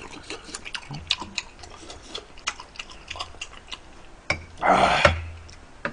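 Close-up mouth sounds of someone eating spicy rice cakes and dumplings: a run of small wet clicks and smacks while chewing, then a short loud breathy rush near the end.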